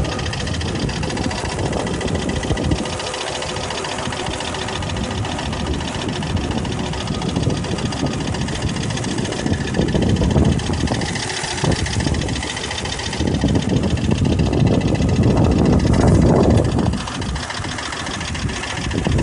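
Volvo 850R's turbocharged 2.3-litre inline five-cylinder engine idling steadily while the car stands still, a little louder for a couple of seconds near the end before settling back.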